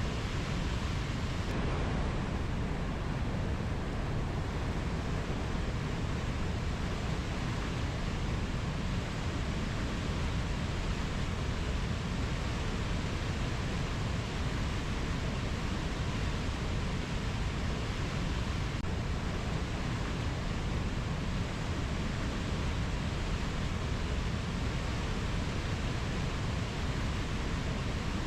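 Steady, even rushing noise of a rainforest ambience recording, with no birdsong, insect calls or distinct events standing out.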